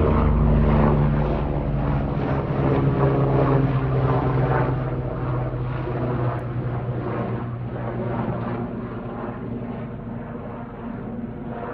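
Leonardo AW109SP GrandNew twin-turbine helicopter flying, its rotor and engines making a steady low hum with a rushing noise over it. It is loudest at the start and fades steadily as it moves away.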